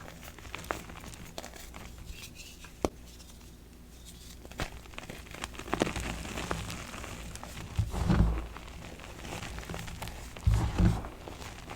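Dyed BSN gym chalk blocks being crushed, crunching and crumbling with scattered sharp cracks and a few dull thuds near the end.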